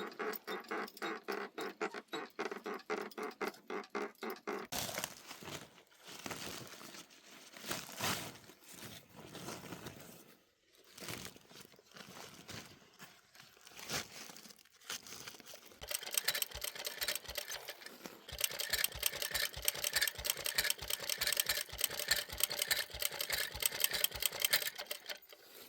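Quick rhythmic scraping strokes, about four or five a second, at the start; then irregular rustling with a few knocks; then a second, faster run of scraping strokes through the last third.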